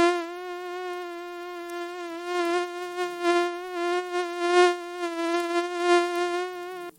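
Mosquito in flight, its wings making a steady buzzing whine with a slight waver in pitch. It cuts off suddenly just before the end.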